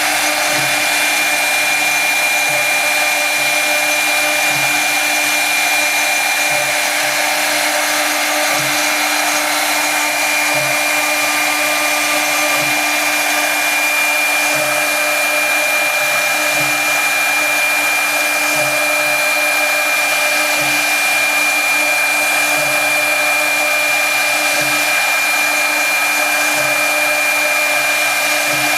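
Brushless spindle of a CNC router running steadily with a constant high whine and airy hiss while machining wood, with a faint low pulse about every two seconds.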